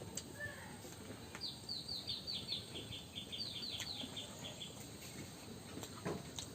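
A small bird trilling: two runs of quick, high chirps, each chirp dropping a little in pitch, with faint scattered clicks around them.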